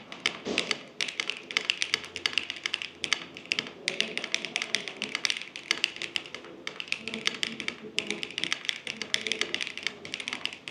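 Typing on a custom 65% mechanical keyboard built from an Orbit65 R2 case and Venom65 HE board, with Duhuk Herz switches under GMK Rainy Day ABS keycaps: a quick run of keystroke clacks in bursts, broken by a few brief pauses.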